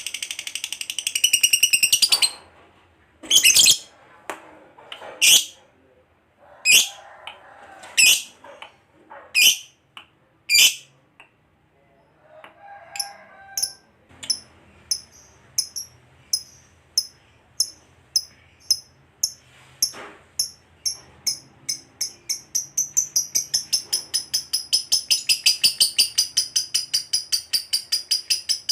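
Lovebird calling. A fast buzzy chatter cuts off about two seconds in, then comes a run of sharp, high single chirps about one a second. Near the end these speed up into a long, rapid continuous chatter.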